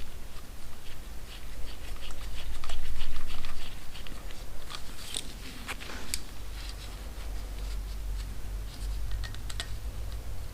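Irregular small clicks, clinks and scrapes of hand tools and loose bolts being handled while working on a motorcycle engine, over a low rumble that swells about three seconds in.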